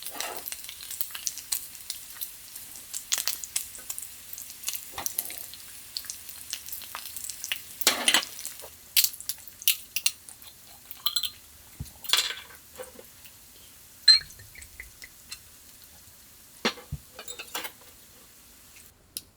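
Food sizzling and crackling in a hot pan, with scattered clinks and clanks of a utensil against cookware. The sizzle cuts off abruptly near the end.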